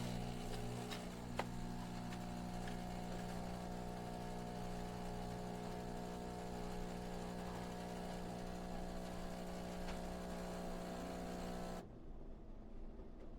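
De'Longhi Magnifica Start espresso machine running with a steady mechanical hum for about twelve seconds, then cutting off suddenly.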